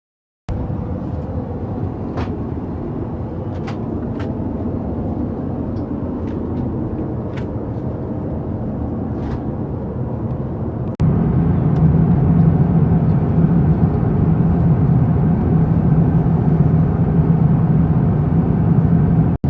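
Airbus A350-1000 cabin noise in flight: a steady rumble of engines and airflow, with a few faint light clicks in the first half. About 11 seconds in it cuts abruptly to a louder stretch with a stronger low hum.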